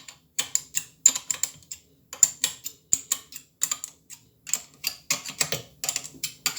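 Quick, irregular metallic clicks and taps, a few each second, from bolts, washers and a wrench being fitted and tightened on a steel lathe vice.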